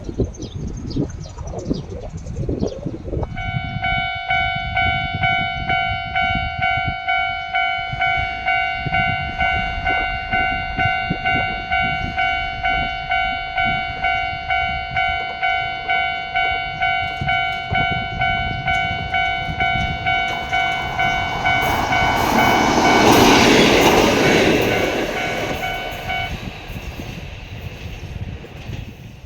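A level crossing alarm rings with a steady electronic tone, pulsing about twice a second. Near the end a Shimabara Railway diesel train passes close by, growing loud with wheel noise. The alarm stops soon after the train has gone by.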